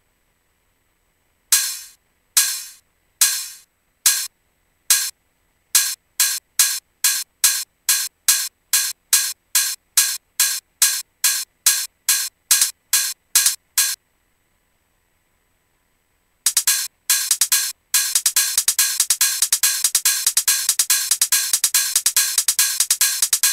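Programmed electronic percussion, crisp hi-hat-like hits with no low end, speeding up from about one a second to two or three a second, then stopping. After a short gap they come back and turn into a fast, continuous roll, like a trance build-up, with a deep kick coming in right at the end.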